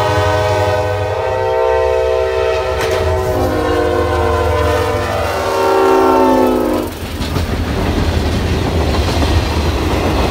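Diesel locomotive horn sounding a loud multi-note chord, which switches to a different chord about three seconds in and cuts off at about seven seconds. It is followed by the rumble and clatter of passenger cars rolling past close by on the rails.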